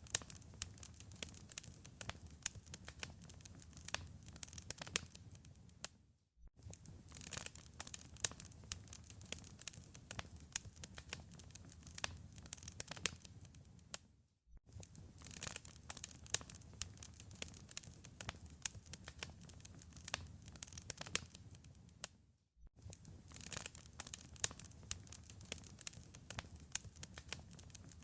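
Wood fire crackling in a fireplace: a dense run of sharp pops and snaps over a low rumble. The sound breaks off for a moment three times, about eight seconds apart.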